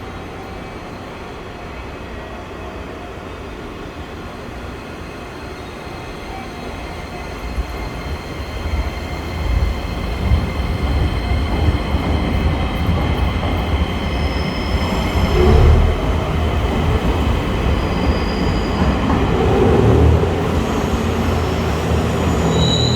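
JR train pulling out of the station and gathering speed: its rumble and running noise grow louder from about eight seconds in, with thin high tones above them that step up in pitch in the second half.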